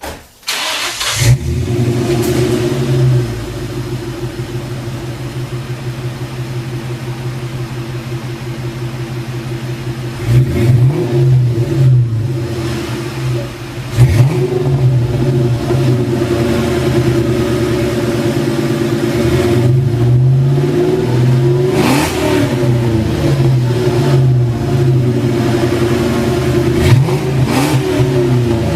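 2003 Mustang SVT Cobra's supercharged 4.6-litre V8 starting through an aftermarket exhaust, then idling with a lopey, rumbling note. Its throttle is blipped several times; the biggest rev comes about 22 seconds in.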